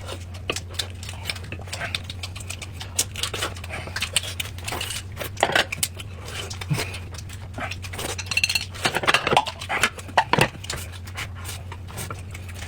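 Close-miked eating sounds: irregular chewing and mouth noises with dishes and chopsticks clinking, busier around the eight-to-ten-second mark, over a steady low hum.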